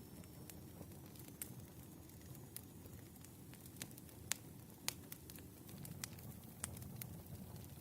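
Firewood burning, with irregular sharp crackles and pops over a low steady rumble of the flames; the loudest pops come a little past four seconds in and just before five.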